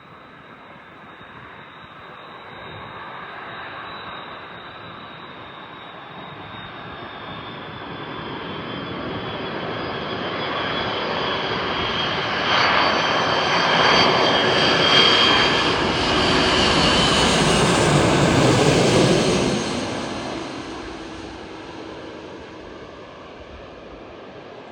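Airbus A330-300 airliner's twin General Electric CF6 turbofans on a landing approach. The jet noise grows steadily louder with a high whine that slowly falls in pitch, peaks past the middle as the aircraft passes closest, then fades away.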